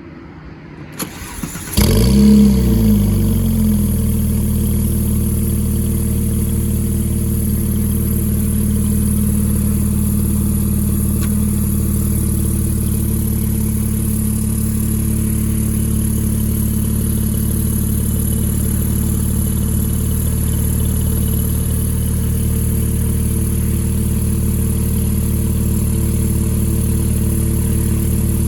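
2007 Porsche 911 (997) Turbo's twin-turbo 3.6-litre flat-six being started: a few clicks, then it catches about two seconds in, flares briefly in revs and settles into a steady idle.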